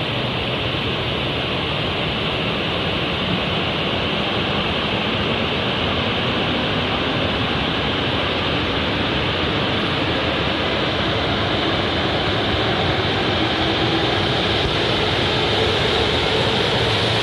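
E5-series Hayabusa shinkansen pulling out of the station: a steady rushing noise that grows slowly louder, with a faint rising whine toward the end as the train gathers speed.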